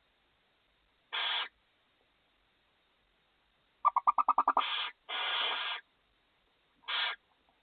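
Barn owls in a nest box giving short, harsh hissing calls: one about a second in, a longer one about five seconds in, and a short one near the end. Just before four seconds there is a quick run of about nine sharp, pitched chittering notes, about twelve a second, that runs straight into a hiss.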